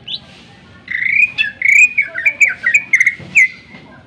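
Cucak ijo (greater green leafbird) singing: a short rising note, a brief pause, then from about a second in a fast, loud run of varied chirped and slurred whistled notes that ends shortly before the close.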